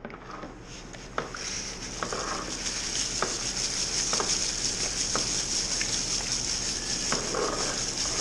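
Dough-in: milled grain being added to a mash tun of hot strike water, a steady hiss with light knocks about once a second.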